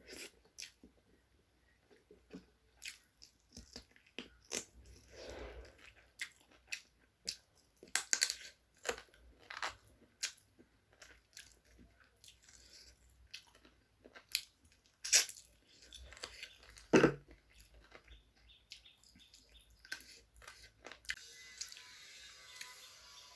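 Close-miked chewing and crunching of spicy chicken leg curry with rice: irregular short wet clicks and mouth sounds, with two louder crunches past the middle.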